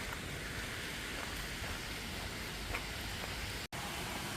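Steady rushing hiss of water spilling over a dam, like heavy rain. The sound cuts out for an instant near the end.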